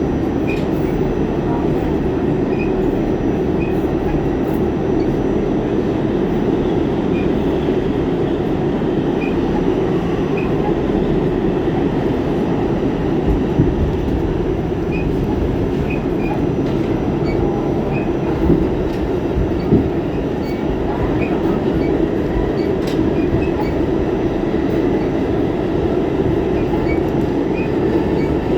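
New York City Subway R46 car running at speed, a steady rumble of wheels on rail with faint intermittent squeaks and a few brief knocks.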